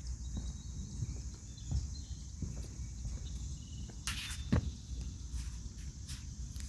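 Footsteps of a person walking a trail, with insects chirring steadily in the background and a couple of sharp clicks about four seconds in.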